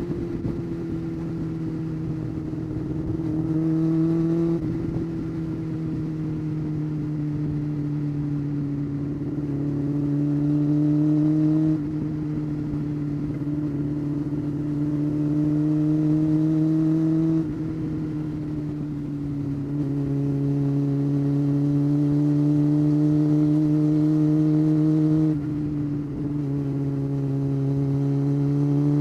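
Honda CBR600 F4's inline-four engine running under way at moderate revs. The engine note climbs slowly and then drops suddenly in pitch and loudness, four times over.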